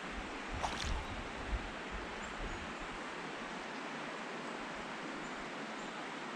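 Small trout stream's water running steadily, with a few short knocks in the first second and a half.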